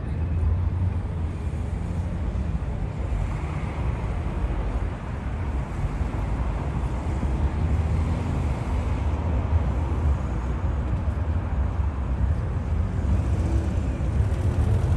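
City street ambience: a steady low rumble of traffic with no distinct single events.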